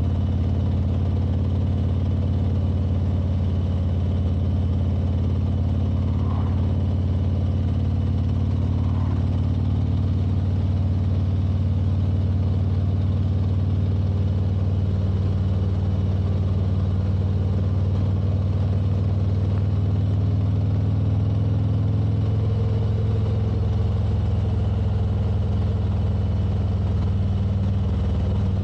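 Motorcycle engine running steadily at cruising speed, with road and wind noise; the engine note holds even, shifting slightly about three quarters of the way through.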